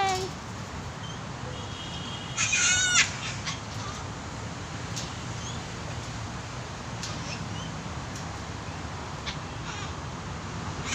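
A parrot gives one loud call with many overtones, about two and a half seconds in and lasting about half a second. A few faint short chirps follow over a steady background hum.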